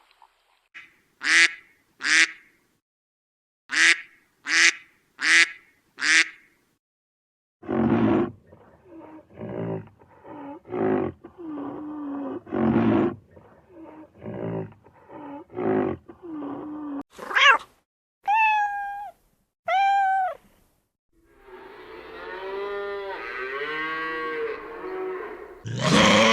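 A sequence of different animal calls: six short sharp calls, then a run of lower calls, then a few loud rising cries, and finally many overlapping calls together near the end.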